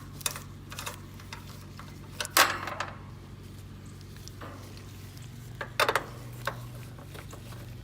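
Scattered metallic clinks and knocks of tools and fittings being handled at a heat pump's refrigerant connections, with the loudest knock about two seconds in and another cluster near the end, over a steady low hum.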